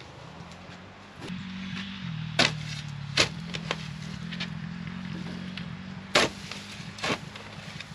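Four sharp knocks or cracks over a steady low hum.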